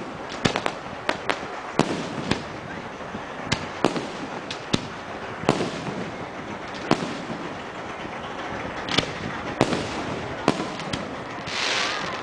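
Fireworks display: aerial shells bursting as a string of sharp bangs at irregular intervals, several each second at times. A short rush of hiss comes just before the end.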